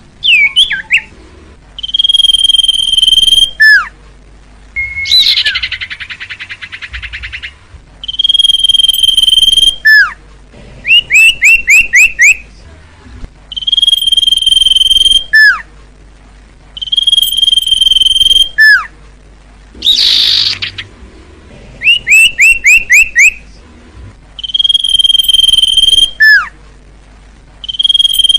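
Common iora (cipoh) singing: long, steady, high whistles of about a second, each ending in a short downward slur, repeated every few seconds. Between them come runs of four or five quick falling notes and, twice, a harsh buzzing rattle lasting one to two seconds.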